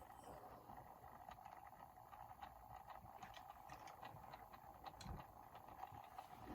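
Near silence: faint steady room hum with a few scattered light clicks.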